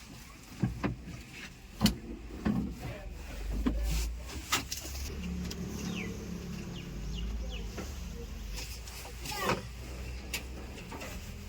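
Heavy diesel machinery running at work, with sharp knocks and clanks several times in the first few seconds and once more near the end. The low engine hum steadies from about halfway through.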